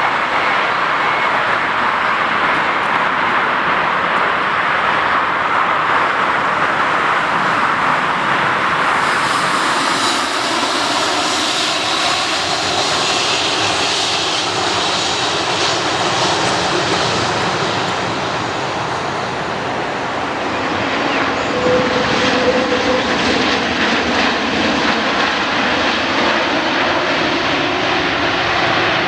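Fixed-wing aircraft engines running loud and steady, with a high thin whine joining in about nine seconds in.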